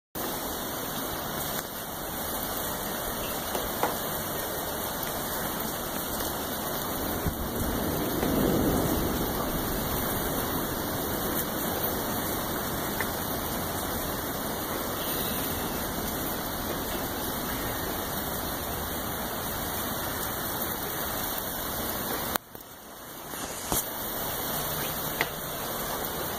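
Steady rain falling hard during a thunderstorm, an even wash of noise with a low swell about eight seconds in. Near the end the sound drops suddenly and builds back.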